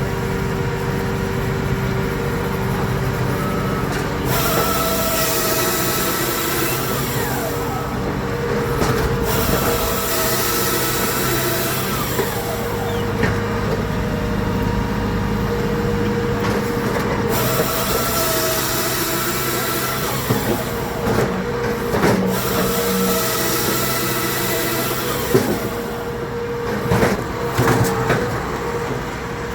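Engine-driven machinery running steadily with a constant drone, overlaid by stretches of loud hissing that start and stop every few seconds. A few sharp knocks come near the end.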